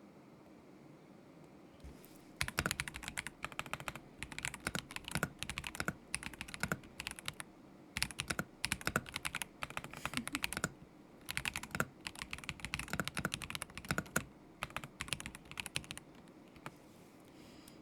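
Typing on a KZZI K75 Pro mechanical keyboard with Moment linear switches: fast runs of keystrokes starting a couple of seconds in, broken by short pauses, stopping about two seconds before the end.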